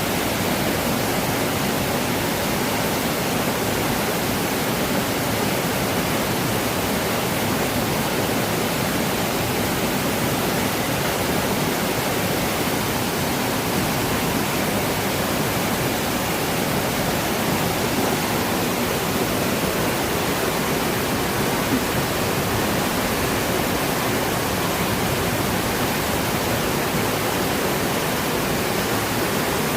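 Flowing water, a waterfall or stream, rushing in a steady, even wash of noise with no change.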